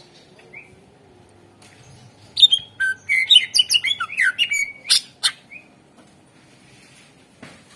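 Greater green leafbird (cucak ijo) singing: after a quiet start, a rapid burst of varied sharp chirps and gliding whistled notes lasting about three seconds, then quiet again.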